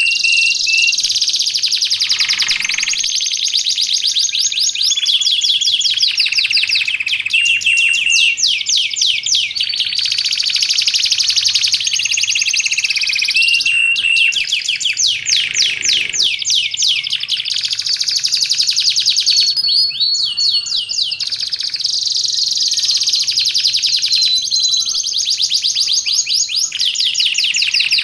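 Domestic canary singing a continuous, unbroken song of rapid rolling trills, switching every few seconds to a new phrase, with short held whistles between the rolls.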